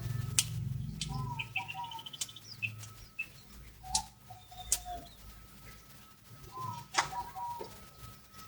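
Sooty-headed bulbul whistling short, clear 'tew tetetew' phrases in three bouts, with some higher chirps and a few sharp clicks.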